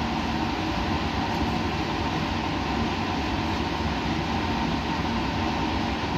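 Steady white-noise rush with a faint low hum.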